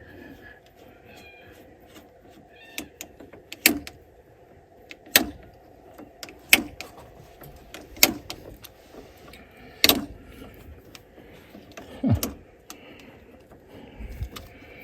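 A series of sharp knocks, about one every second and a half, over a faint background.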